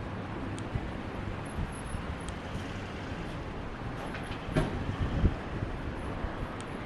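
Steady low rumble of a jet airliner's engines, with a few brief knocks about two thirds of the way through.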